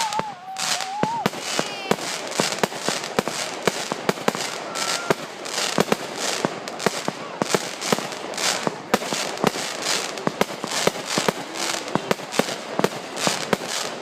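Consumer fireworks going off in quick succession: sharp bangs and crackling pops, several a second, without a break.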